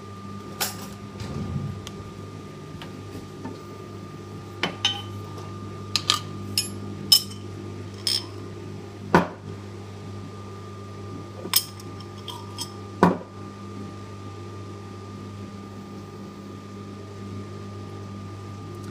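Scattered sharp clinks and knocks of utensils against glass and crockery, about a dozen, most of them in the first two thirds, over a steady hum from a microwave oven running.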